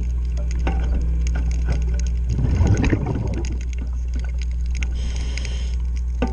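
Underwater work sounds: scattered clicks and knocks, likely from the propeller and its fittings, over a steady low hum. A scuba diver's breathing is heard, with a bubbling exhale about two and a half seconds in and a regulator hiss on the inhale a little after five seconds.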